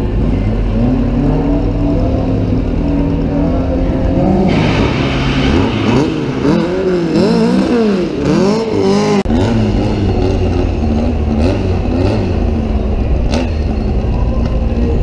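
Drag-racing cars at the starting line: engines running steadily, then revving hard from about four seconds in, with the pitch swinging up and down several times as they launch and pull away, before settling into a steadier low rumble.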